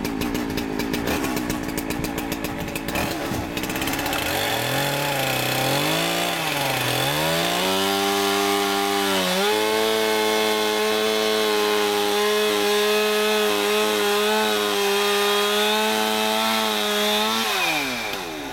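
Two-stroke gas-powered saw running: after about four seconds of uneven running it revs up and down a few times, then holds full throttle steadily for about eight seconds before the throttle is released and the revs drop near the end.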